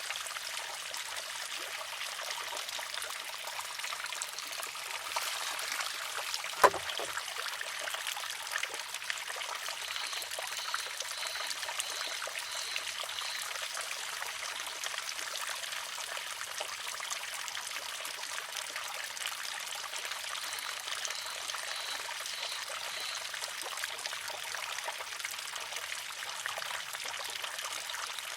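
Water trickling steadily into a wooden shishi-odoshi, with one sharp wooden clack about six and a half seconds in as the water-filled arm tips over and strikes the rock. Two short runs of faint high peeps come later.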